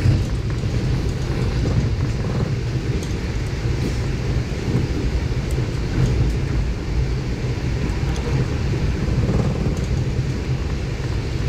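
Train running along the track: a steady low rumble with a few faint ticks.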